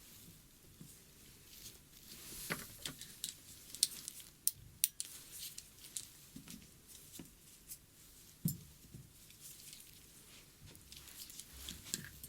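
ASMR ear-cleaning sounds: irregular soft scratching and crackling, with scattered sharp clicks.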